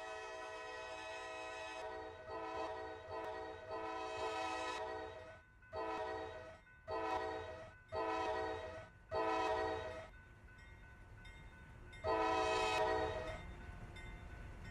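Horn of Norfolk Southern AC44C6M locomotive 4883, leading a passing intermodal train. It sounds a held note that breaks into a string of about eight short blasts, then one more longer blast near the end, with the train's low rumble underneath.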